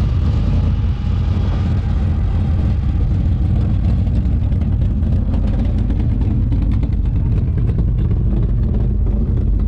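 Car engine running steadily as a car drives slowly past, a deep low exhaust note.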